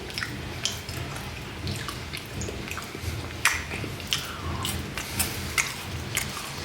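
Chewing a strawberry Kit Kat wafer close to the microphone: scattered crisp crunches and wet mouth clicks, several a second, over a low steady hum.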